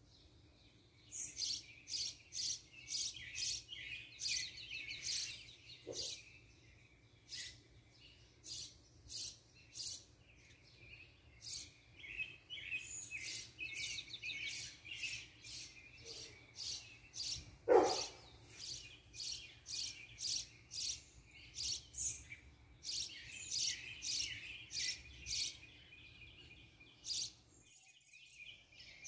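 Birds chirping: many short, high chirps in quick series throughout, with one louder, sharper sound about 18 seconds in.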